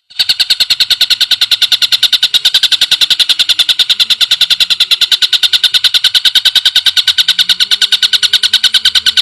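Recorded greater green leafbird (cucak ijo) calling in a fast, even series of sharp, high notes, about ten a second, starting abruptly out of silence.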